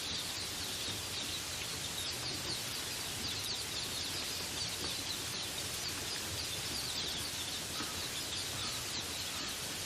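Steady rain falling in a forest, with small birds chirping throughout: many quick, high, downward-sliding chirps over the rain's even hiss.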